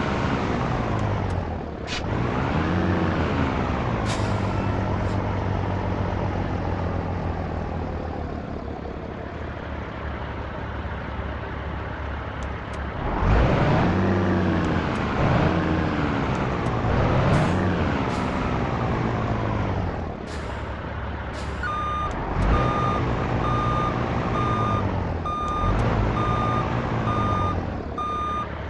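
Truck diesel engine running and revving up and down while manoeuvring, with short air-brake hisses. About two-thirds of the way through a reversing alarm starts beeping steadily.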